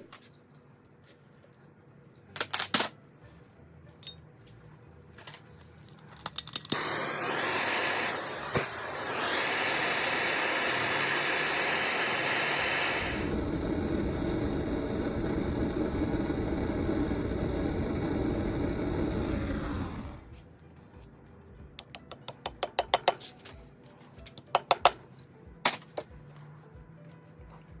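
Electric drill starting up and running steadily for about thirteen seconds, boring into a broken exhaust stud, its sound changing partway through. Before and after come scattered metallic clicks and taps, with a quick run of sharp clicks near the end.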